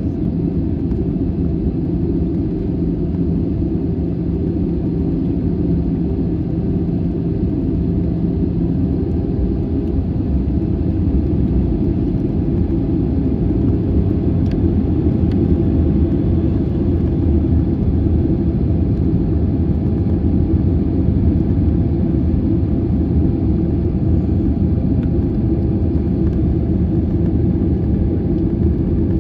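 Steady, loud low rumble of a Boeing 737-800's CFM56 jet engines and airflow, with faint steady hum tones above it. A low hum fades out about nine seconds in.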